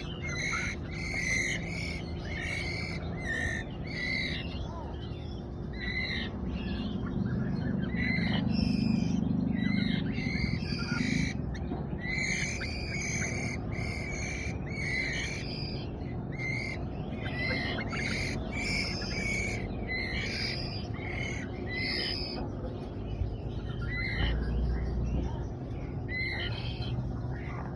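Young white-rumped shama begging while being fed: short, harsh calls repeated about two a second in runs with brief pauses.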